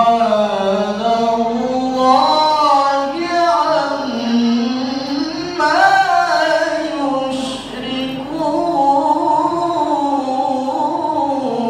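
A male Quran reciter (qari) chanting in the melodic tilawah style. He draws out long, ornamented phrases whose pitch glides up and down, with a few short breaks between them.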